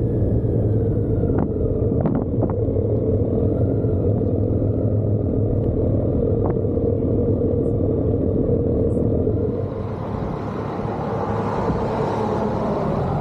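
Motorcycle engine running steadily under way, with wind and road noise. About ten seconds in, the low engine note weakens and a higher rushing noise grows.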